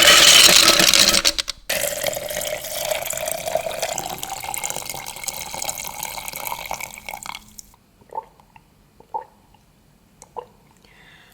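Liquid poured into a container: a loud splashing rush for about a second and a half, then a steady pour whose pitch rises as the container fills, stopping about three quarters of the way through. A few short drips follow.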